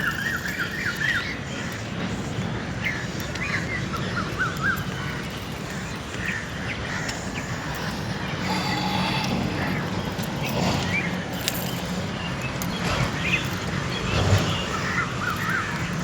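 Birds calling outdoors: quick repeated chirping trills near the start, a few seconds in and near the end, with a harsher call about halfway through, over a steady low background rumble.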